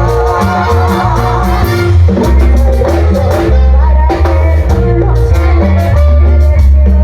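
Latin dance band playing live, with a heavy bass line and singing.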